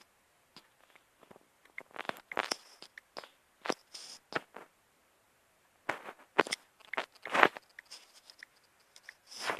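Irregular sharp clicks and short crackles close to the microphone, in two clusters with a brief silent gap between: handling noise.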